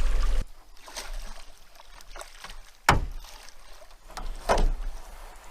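Sounds of an aluminum canoe on the water: a low steady hum cuts off about half a second in, then a sharp knock about halfway through and a short swishing splash a second and a half later.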